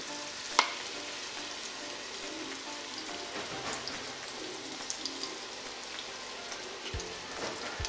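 Diced apples frying in melted butter in the pot of a Cuisinart MSC600E multicooker set to 200 degrees: a steady crackling sizzle as honey is poured in. A sharp knock comes about half a second in.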